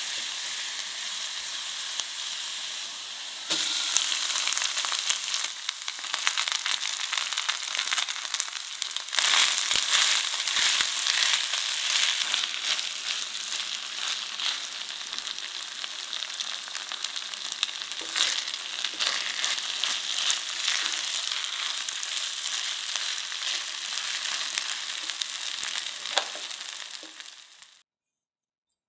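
Chopped button mushrooms and garlic sizzling in oil in a pan, then spinach-pesto rice being stir-fried, stirred and scraped with a silicone spatula. The sizzling is steady, with small scraping ticks from the spatula, grows louder a few seconds in and again later, and cuts off suddenly near the end.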